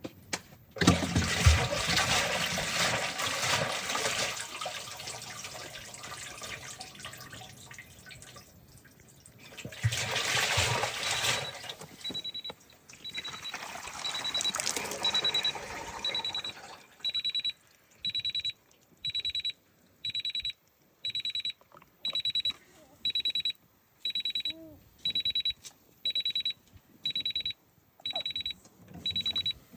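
Miele washing machine with water swishing and gushing inside for the first half. It then starts its fault alarm, a high beep that settles into a steady beep about once a second, signalling a drain fault.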